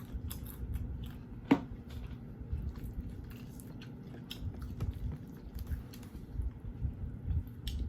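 A person chewing food close to the microphone, with wet mouth sounds and small scattered crunches and clicks, and one sharper click about a second and a half in.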